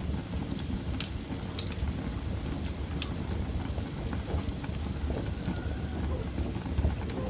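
Wood fire in a fireplace burning with a steady low rumble and scattered sharp crackles and pops, the loudest pop about three seconds in.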